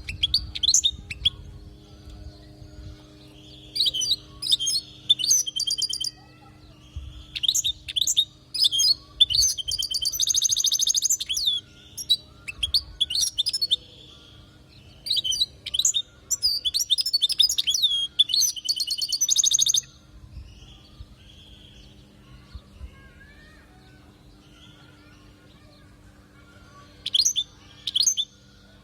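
European goldfinch singing: bursts of fast twittering, trilled phrases broken by short pauses, then a longer pause before it starts again near the end. A faint steady hum runs underneath.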